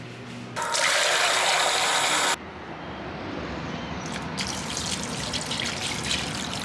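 Running water: a loud, hard gush for about two seconds that cuts off suddenly, then a softer, uneven flow.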